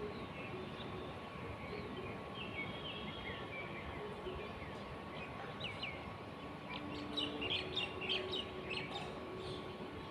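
Small birds chirping over a steady background hiss, with a quick run of sharp chirps about seven to nine seconds in.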